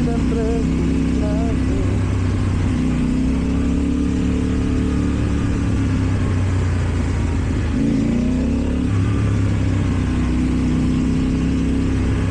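KTM Duke 790 parallel-twin engine with an Akrapovic exhaust, running under way at a steady pitch. The revs dip and then climb again about eight seconds in.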